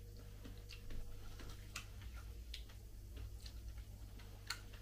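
Eating spoonfuls of juicy dragon fruit: soft chewing with small wet mouth clicks and smacks at irregular intervals, about one a second, the sharpest near the end.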